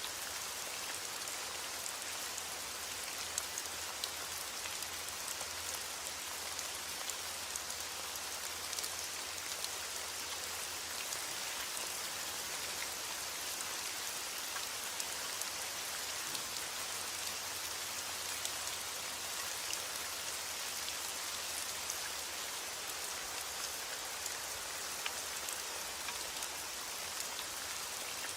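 Steady heavy rain falling, an even hiss with scattered sharper drop patters.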